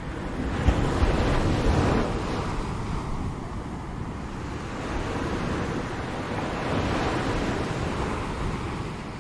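Ocean waves breaking and washing on the shore, in two surges: one swelling about a second in and another around seven seconds in.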